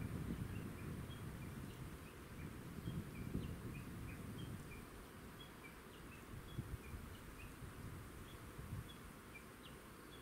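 A small bird chirping over and over in short notes, alternating between a higher and a lower pitch, several calls a second, over a low steady outdoor rumble.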